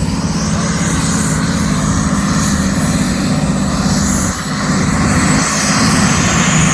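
Modified pulling tractor's engine running hard at full power as it drags the weight-transfer sledge down the track, the sledge loading it more as it goes. The engine note holds steady apart from a brief dip about four seconds in, with a thin high whine above it.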